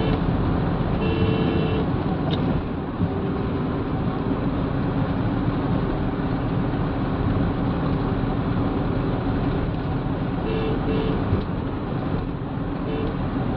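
Mahindra Bolero's diesel engine running with tyre and road noise as the vehicle drives along, heard from inside the cabin.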